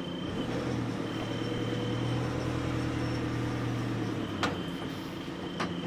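Heavy lifting machine's engine running steadily with a low hum and a faint high whine, with two sharp knocks, one about four and a half seconds in and one near the end.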